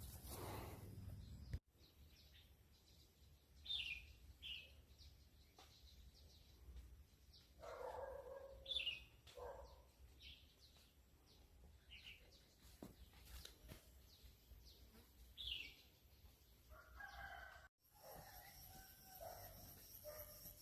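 Faint outdoor birds calling now and then: short high chirps, and a longer, lower crowing-type call about eight seconds in, over a faint low background hum.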